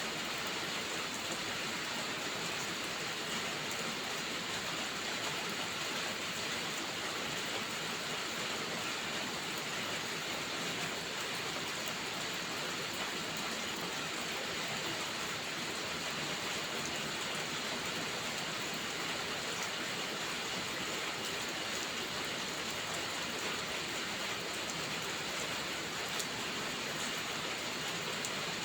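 Steady rainfall: an even, unbroken hiss with a few faint scattered ticks.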